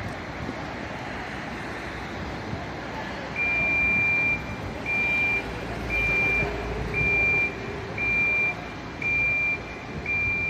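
Vehicle reversing alarm beeping in a single high tone about once a second, starting a few seconds in, over the steady running of the vehicle's engine.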